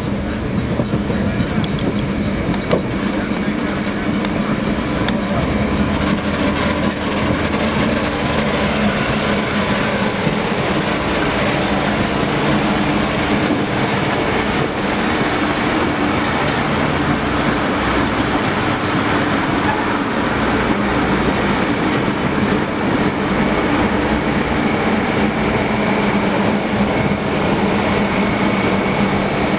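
A train rolling steadily along the rails: a continuous rumble of wheels on track, with a thin, high wheel squeal that fades out about six seconds in.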